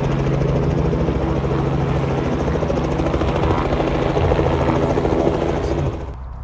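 Cessna 172's piston engine and propeller running, a steady hum with a rapid beating. It cuts off suddenly about six seconds in.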